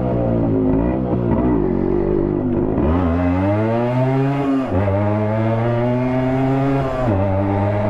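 Yamaha RX100's two-stroke single-cylinder engine, its silencer baffle removed, riding with a loud, raw exhaust note. The pitch climbs as it accelerates, drops sharply about halfway through, holds steady, then drops sharply again near the end.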